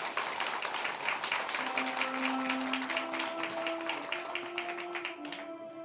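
Audience applauding, dying away near the end, while background music with sustained notes starts up about a second and a half in.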